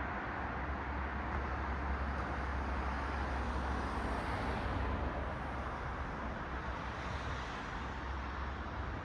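Street traffic: cars passing on a city road, a steady tyre-and-engine hiss over a low rumble. One car passes closer and louder about four to five seconds in, then fades away.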